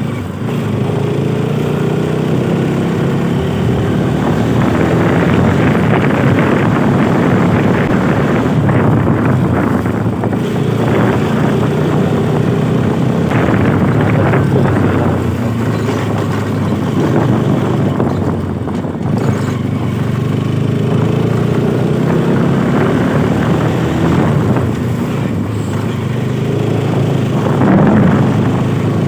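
Motorcycle engine running under way, its note rising and falling again and again with the throttle and gear changes, with wind rushing past.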